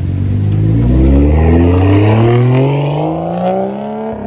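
BMW 4 Series coupe engine revving up as the car pulls away under acceleration, its pitch climbing steadily through first gear, then dropping sharply near the end as it shifts up.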